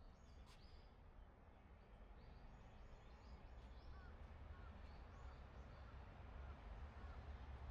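Faint birds calling in woodland: a run of short high notes, then from about four seconds in a series of soft, lower hooked calls, about two a second, over a low rumble that slowly grows louder.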